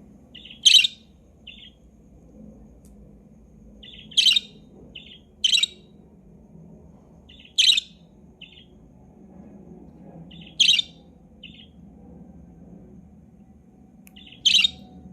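Budgerigar chirping: six loud, sharp calls a few seconds apart, each with a softer short chirp just before and after it.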